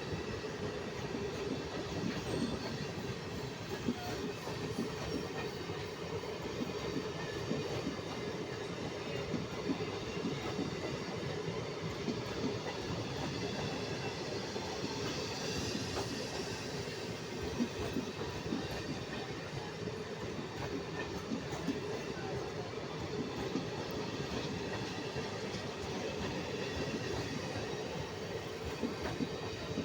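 Indian Railways train running on the track: a steady rumble with dense rattling of wheels and coaches, and a brief high wheel squeal about halfway through.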